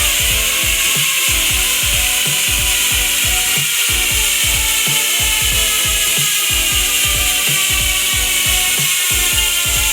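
Profile Elite BMX rear hub freewheeling, its pawls ratcheting in a fast, steady buzz whose pitch sinks slowly as the wheel coasts down.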